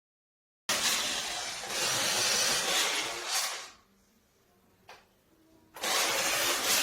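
Remote-control monster truck running in two bursts: a loud whirr of its electric motor and gears with tyre noise. It stops for about two seconds in the middle, where there is a single click.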